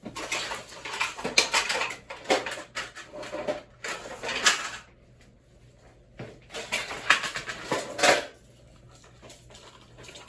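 Hard objects rattling and clattering in two long stretches, the second starting about six seconds in, over a faint steady low hum.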